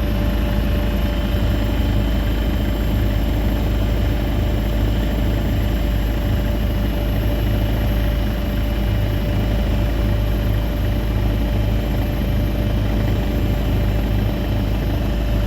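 Steady low mechanical drone with a thin steady whine over it, even in level throughout.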